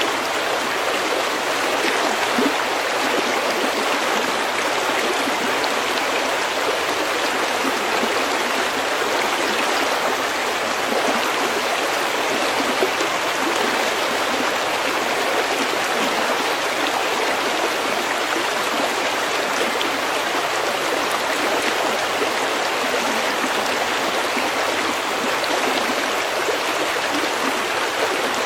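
Snowmelt stream running steadily over pebbles, an even, unbroken rush and babble of water.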